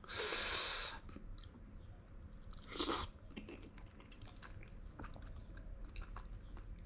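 A person chewing soft mangosteen flesh with the mouth closed, close to the microphone, making many small wet clicks. A loud noisy burst comes in the first second and a shorter one just before three seconds in.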